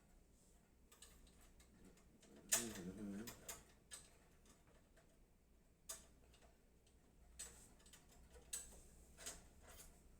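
Faint, scattered clicks and light metallic taps, about half a dozen spread unevenly, from handling a screwdriver and the small metal expansion slot covers and screws of a PC case.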